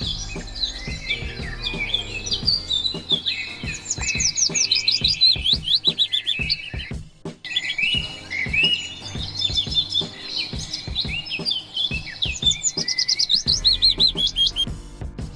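Songbirds singing in a dense spring chorus of varied chirps and whistles, with two runs of quick falling whistled notes, over quiet background music.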